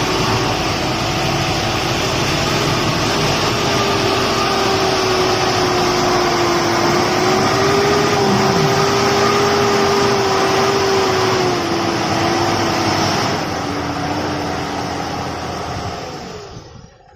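A motor vehicle's engine running steadily up close, under a loud rushing noise. Its tone drifts slightly, drops a little in pitch about two thirds of the way through, and then fades out near the end.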